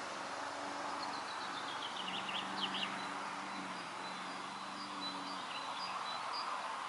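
Outdoor pond-side ambience of steady wind hiss, with a small bird chirping a quick run of high notes from about one to three seconds in. A faint low steady hum lies underneath.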